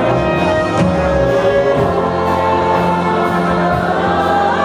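Gospel choir singing a slow worship song, the voices holding long notes over a steady low accompaniment.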